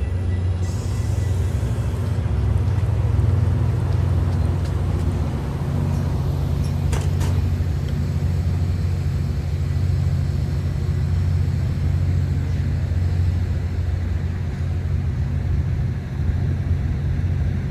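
Metra diesel locomotive idling steadily while the train stands at the platform, a low even hum. About a second in there is a short hiss of released air, and there is a faint clank about halfway through.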